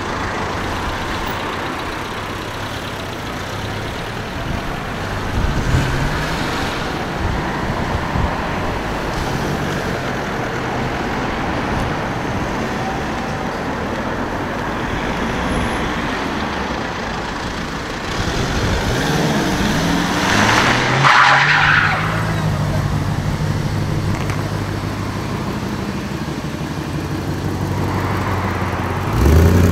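Modified cars driving slowly past one after another, their engines running at low revs over a steady hum of traffic. Near the end one car accelerates hard, its engine note rising steeply.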